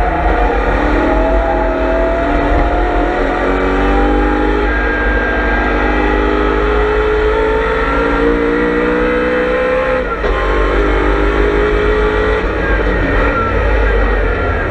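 BMW M3 E92's V8 race engine heard on board under hard acceleration, its pitch climbing slowly through one long gear. About ten seconds in it upshifts with a brief dip in sound and pulls again.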